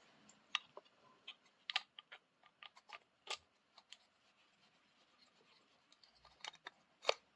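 Faint, scattered clicks and small knocks of camera tripod parts being handled and fitted together, pausing for a couple of seconds midway, with a few quick clicks and the sharpest click near the end.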